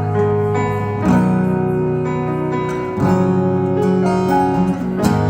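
Acoustic guitar strumming the instrumental intro of a song, chords ringing and changing about every two seconds.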